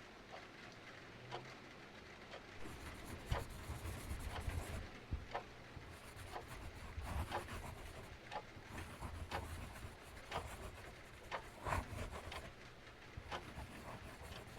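Wood fire crackling, with irregular sharp pops and a low rumble of flames over a soft steady hiss of rain.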